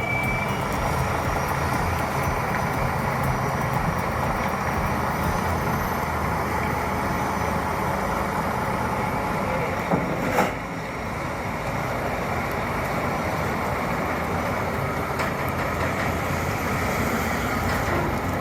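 Heavy truck's engine running steadily under load, with a single sharp knock about ten seconds in.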